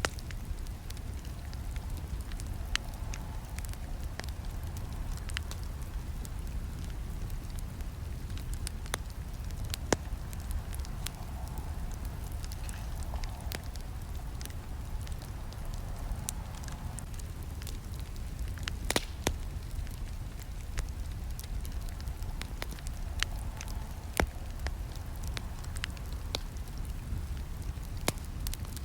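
Campfire burning: a steady low rumble of flames with scattered sharp crackles and pops, and a few louder snaps about ten seconds in and again near the middle.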